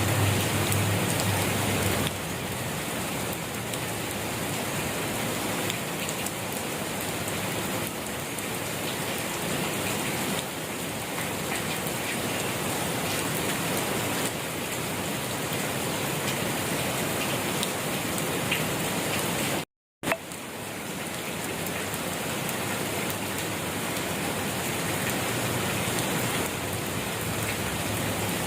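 Steady rain falling, an even hiss of drops on surfaces. About two-thirds of the way through it drops out to silence for a split second and comes back with a click.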